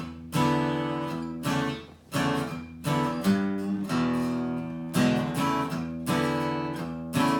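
Acoustic guitar playing a rock-and-roll riff: small two-finger chord shapes on the 5th and 3rd strings, rocked back and forth and strummed in about a dozen short strokes, each chord ringing on briefly.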